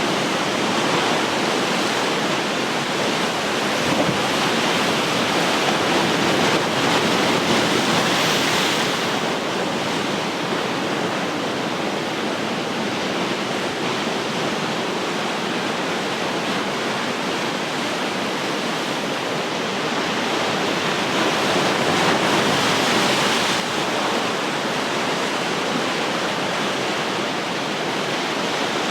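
Ocean surf washing continuously, with a wave breaking and swelling louder around 7 to 9 seconds in and again around 22 to 23 seconds in.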